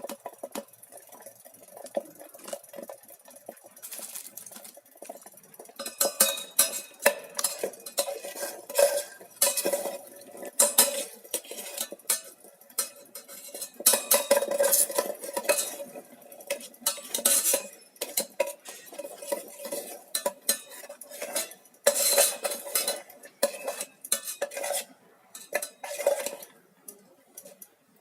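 A utensil scraping and clinking against the inside of an electric kettle, stirring eggs as they scramble in oil. The stirring is stop-start, light at first and busier from about six seconds in.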